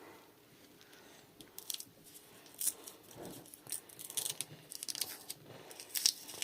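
Bandage wrappers being handled and torn open: a run of short, light crinkles and rips that starts sparse and comes thicker after the first couple of seconds.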